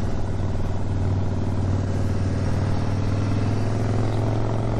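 Harley-Davidson V-twin motorcycle engine running at a steady, even pace while being ridden, with a low rumble and road noise.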